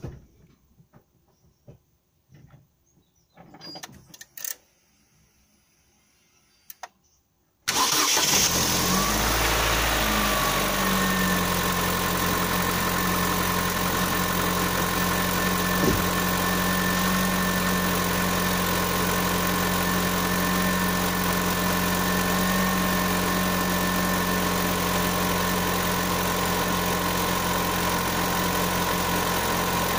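Opel Zafira A's 1.8 X18XE1 four-cylinder petrol engine cold-started after a few seconds of quiet with small clicks, catching at once and settling within a few seconds into a steady idle. The owner puts the engine's knock down to a faulty intake manifold.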